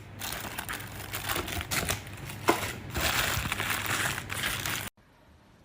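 Plastic packaging crinkling and rustling as it is handled, with many small clicks and one sharper click about two and a half seconds in; the sound cuts off abruptly near the end.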